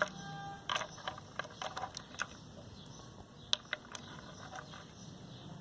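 Small decorative pebbles clicking and clattering as they are set in place one by one in a ceramic pot, in irregular sharp clicks, one early knock ringing briefly.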